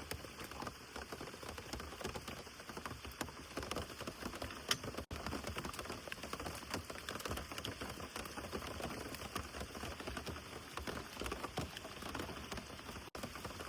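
Steady rain pattering down, many separate drops ticking, with one sharper drop about five seconds in.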